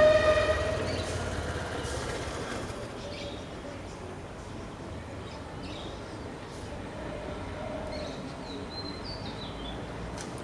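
A distant horn blast, one held tone, fades out over the first couple of seconds above a low rumble. After it come scattered short, high bird chirps against steady outdoor background noise.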